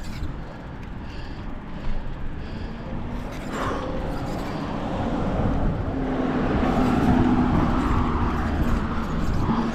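A motor vehicle's engine hum close by, getting louder from about four seconds in, over wind rushing on the microphone of a moving bicycle.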